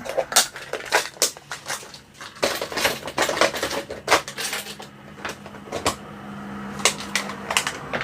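Irregular clicks, taps and rattles of small hard objects being handled on a workbench. A faint steady low hum runs under them for several seconds in the middle.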